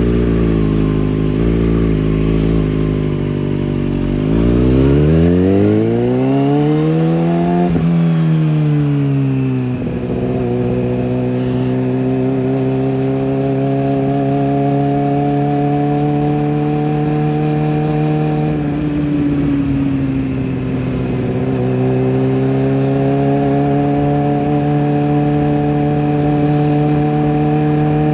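Kawasaki ZX6R inline-four engine and exhaust: idling low, then revving smoothly up and back down about 4 to 10 seconds in, then running at a steady higher speed with a brief dip and recovery about two-thirds of the way through.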